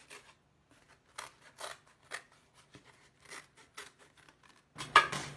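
Scissors cutting through corrugated cardboard: a series of separate crisp snips about half a second apart, with a few louder ones near the end.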